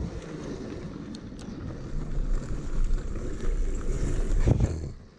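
Electric dirt bike riding over rough forest trail: wind noise on the action-camera microphone and rattling of the bike, with a sharp knock about four and a half seconds in.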